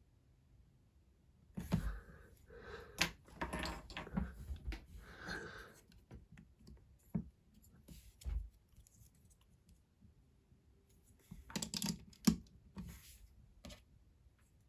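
Small plastic Lego pieces and minifigures being handled on a table, clicking and rattling in two bursts, the first about two seconds in and the second near the end.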